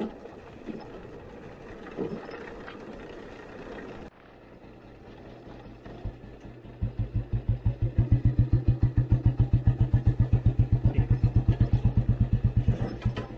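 Old Royal Enfield Bullet Standard 350's single-cylinder engine. A low rumble gives way, after a sudden break about four seconds in, to the engine's thump, which builds from about six seconds in to a loud, even, rapid beat.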